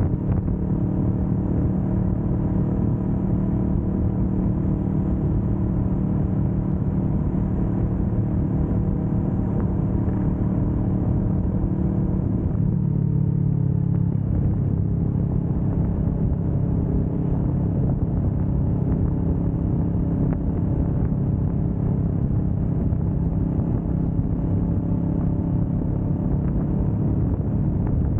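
Kawasaki Vulcan S 650's parallel-twin engine running steadily at cruising speed. Its pitch dips briefly about halfway through, then holds steady again.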